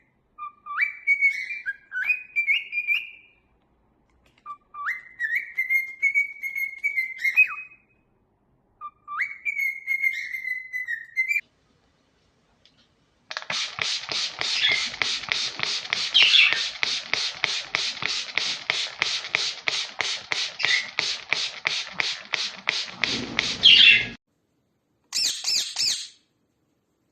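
A pet parrot whistling three short phrases that glide up and down in pitch, then giving a long run of rapid, evenly repeated chirps, and a short high call near the end.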